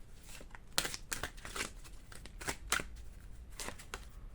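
A deck of fortune-telling cards being shuffled and handled, giving a run of quick papery snaps and flicks at uneven intervals.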